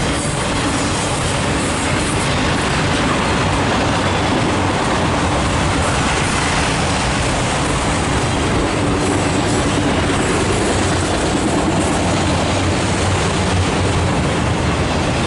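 Loaded autorack freight cars rolling past: a steady, unbroken noise of steel wheels running on the rail.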